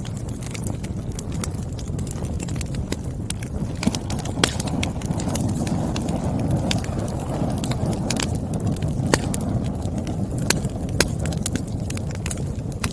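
Wood fire burning, with a steady low roar of flames and irregular sharp crackles and pops from the burning logs.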